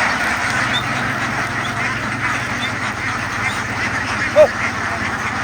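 A large flock of domestic ducks quacking all at once in a dense, continuous din, with a low steady hum underneath. About four seconds in, one short call stands out louder.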